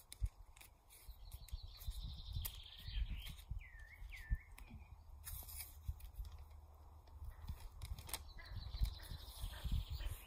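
Wild birds chirping. A high trill and a few swooping chirps come a few seconds in, and another trill near the end, over low rumbling and thuds.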